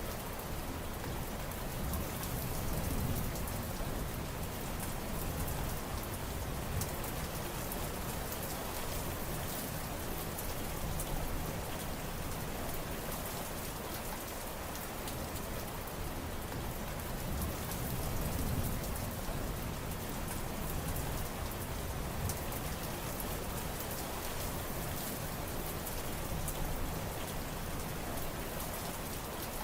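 Steady rain falling on surfaces, an even hiss with the fine patter of individual drops. A soft low rumble swells up twice, a few seconds in and again past the middle.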